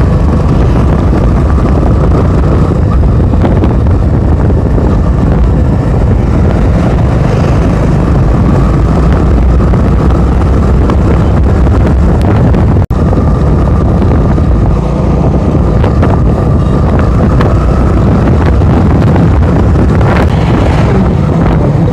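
Motorcycle on the move: loud, steady wind rush over the microphone with engine and road noise underneath and a faint steady whine, broken once by a brief dropout about halfway through.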